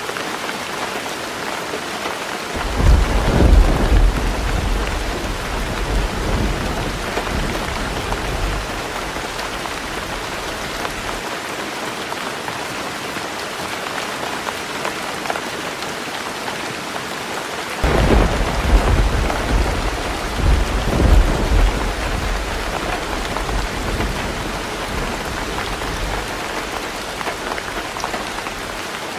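Heavy rain drumming on a roof in a steady hiss, with two rolls of thunder: one about three seconds in, and another a little past halfway. Each rumbles on for several seconds with a few louder swells.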